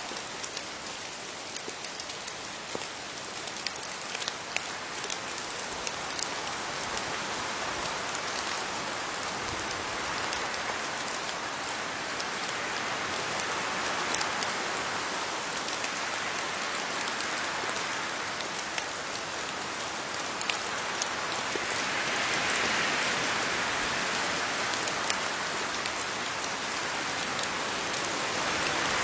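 Steady rain falling on leaves, a dense hiss full of small drop ticks that swells gradually louder over the second half.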